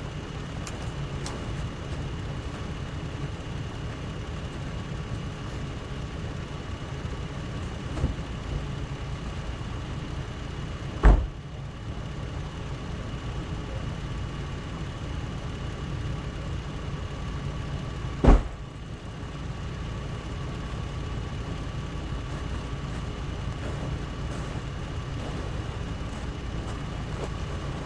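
A vehicle engine idling steadily, broken by two loud sharp clunks about seven seconds apart, with a lighter knock a few seconds before the first.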